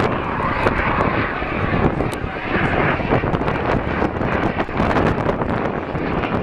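Jet noise from a Eurofighter Typhoon's twin turbofan engines, a loud, steady rush that is strongest in the first half, with wind buffeting the microphone throughout.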